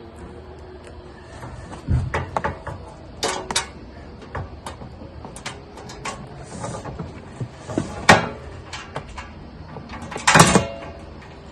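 Scattered knocks and clinks of scroll saw stand parts and their nuts and bolts being handled and fitted during assembly, with a longer rattle near the end.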